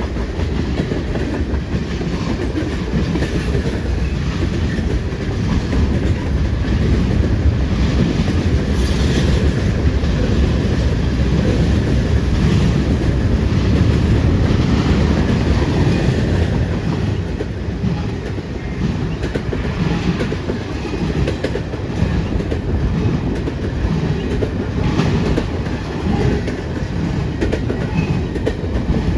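Freight train cars rolling past, a steady heavy rumble with repeated clicks of wheels over the rail joints.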